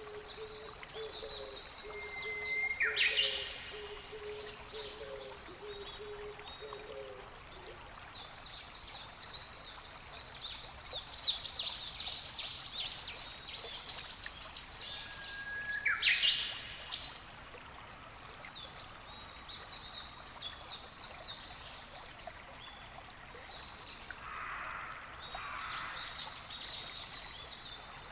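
Birds calling over a faint wash of water: a near-constant flurry of quick high chirps, with a louder call that sweeps sharply upward about 3 seconds in and again about 16 seconds in.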